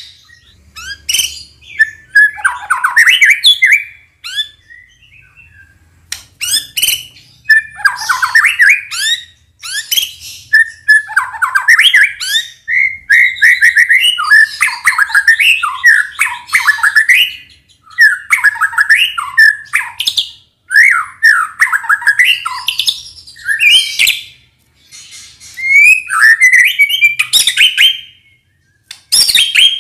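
White-rumped shama (murai batu) singing loudly and energetically: long bursts of fast, varied whistled phrases mixed with sharp clicking notes, broken by a couple of short pauses.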